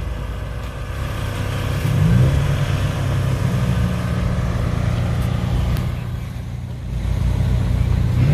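Car engine running at idle, then revved up about two seconds in and held at a steady higher speed for several seconds before easing back near the end.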